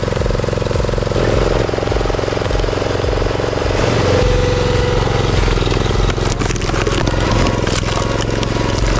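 Engine of heavy wood-cutting machinery running steadily under load, with a brief steady whine about four seconds in and a run of sharp clicks and knocks in the last few seconds.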